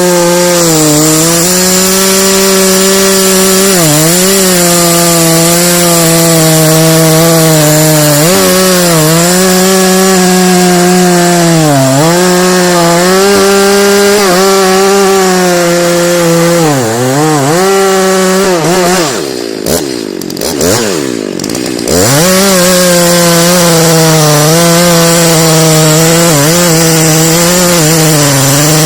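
Two-stroke chainsaw at high revs cutting into a big tree, its pitch dipping briefly every few seconds as the chain loads up. About twenty seconds in, the saw drops off the cut and is revved up and down for a couple of seconds, then goes back to cutting at full speed.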